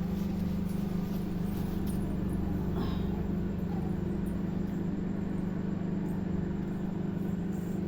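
LG microwave oven running on full microwave power (900 W): a steady, even hum from the magnetron, fan and turntable while it cooks.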